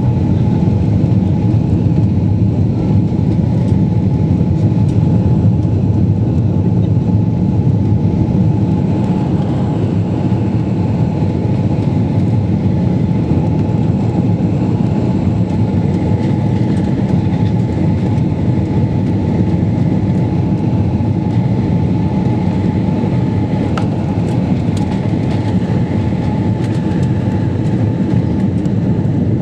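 Jet airliner cabin noise in flight: a steady, loud rumble of engines and airflow with a constant whine running through it.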